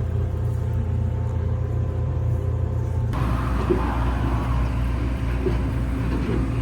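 Tractor diesel engine idling steadily. About three seconds in, its note shifts and a rougher, noisier sound joins it.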